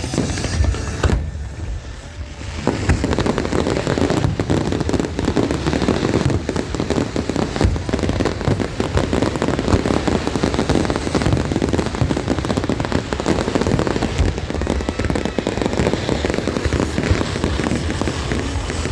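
Aerial fireworks going off in a dense, rapid barrage of bangs and crackle, starting after a short lull about two and a half seconds in and continuing without a break.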